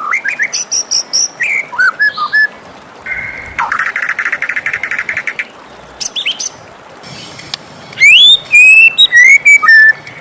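White-rumped shama singing a varied run of clear whistled phrases, with a rapid buzzy rattle in the middle and loud rising whistles near the end.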